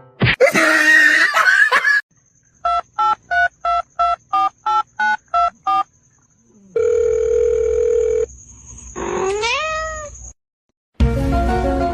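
A noisy stretch of about two seconds, then a run of about ten short, evenly spaced electronic beeps like telephone keys. A steady tone follows, then a rising call about a second long; after a short silence a noisy sound starts near the end.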